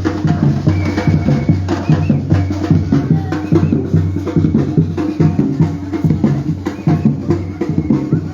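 Batucada percussion group playing live: bass drums pulsing in a steady beat under dense, fast strikes of higher drums.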